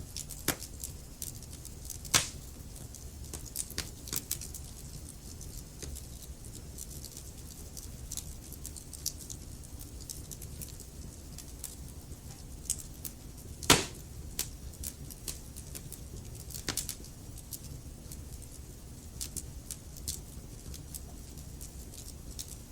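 Wood fire burning logs in a fireplace: a steady low rumble of the flames with frequent sharp crackles and pops, two louder pops about 2 seconds in and near the middle.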